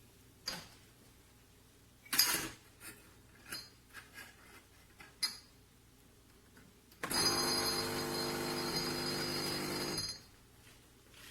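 A few clicks and knocks from handling the Black+Decker BXCO1200E espresso machine, then its pump buzzing steadily for about three seconds before cutting off.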